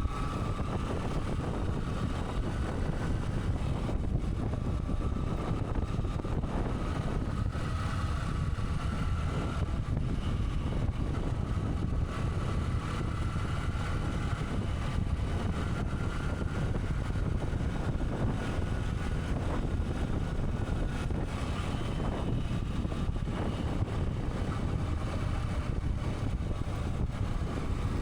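Motorcycle running steadily on the move, with a continuous low rumble of engine, road and wind noise and a faint whine that drifts slightly in pitch.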